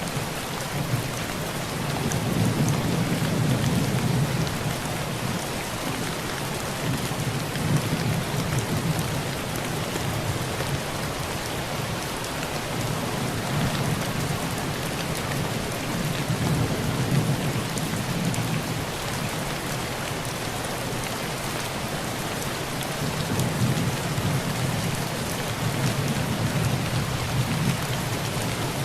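Heavy rain falling on a tin roof, a steady hiss, with low rolls of thunder swelling and fading four times.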